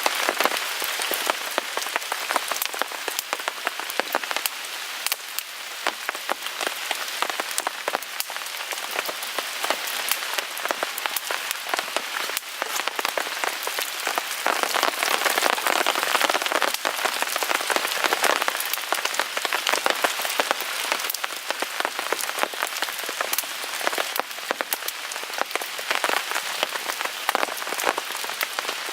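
Steady rain falling on a tarp overhead, thick with fine drops and clicks, mixed with a wood fire crackling in a Picogrill 398 fire pit.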